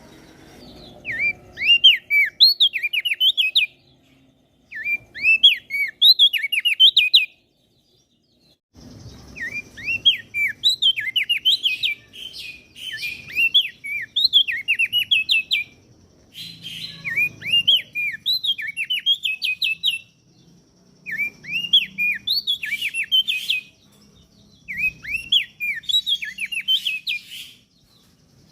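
Opior jambul (crested dark-eye) singing in repeated phrases of quick, high chirping notes, each phrase a few seconds long and separated by short pauses.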